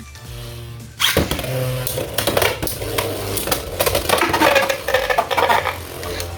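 Two Beyblade X spinning tops, Hells Scythe and Rhino Horn, whirring and clashing in a plastic stadium. From about a second in they collide hard, with dense, rapid clattering and scraping.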